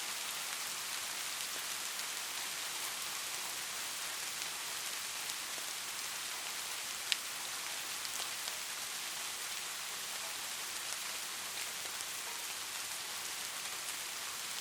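Light rain falling in a steady hiss, with scattered drops ticking on a surface and one sharper drip tick about halfway through.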